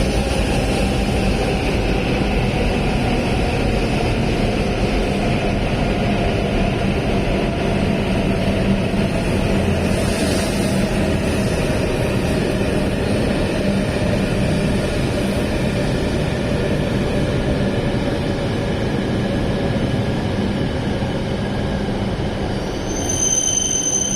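E7/W7-series Hokuriku Shinkansen train running slowly along the platform. A steady rumble and rush of running noise, with a faint whine that slowly falls in pitch as the train slows. Near the end a high steady tone starts.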